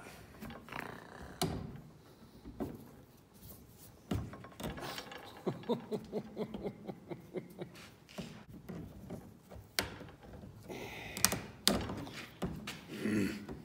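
Hand tools knocking and tapping on a vintage truck heater unit as it is being pried apart: a quick run of taps about five seconds in, then several sharp, louder knocks a few seconds later.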